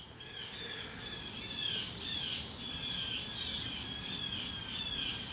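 Birds chirping: a steady run of short, high, slightly falling notes repeated over and over.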